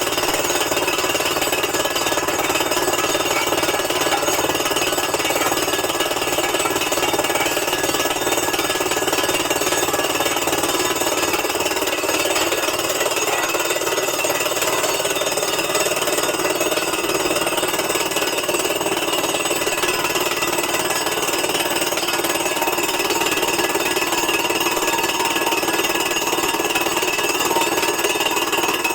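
Tractor-mounted borewell rig drilling into rock with a compressed-air hammer, fed by its high-pressure compressor: a loud, steady hammering din.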